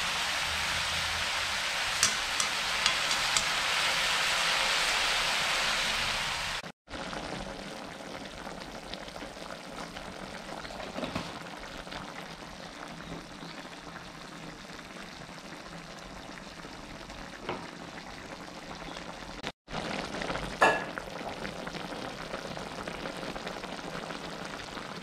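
Mushroom curry sizzling and simmering in a metal pot, a steady hiss that is loudest for the first seven seconds and then quieter, broken by two brief cuts, with a few sharp clicks.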